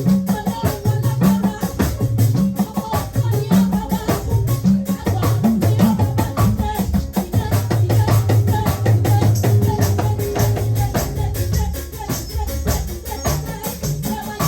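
Live gospel praise band playing an instrumental interlude, with a bass line, drums and shaken percussion such as tambourine keeping a steady, fast beat.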